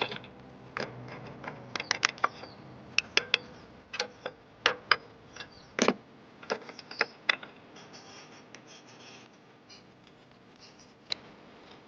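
Irregular sharp clicks, light knocks and scratches of small metal parts and hand tools being handled while working on a power tiller's pinion gear, thinning out for a few seconds near the end.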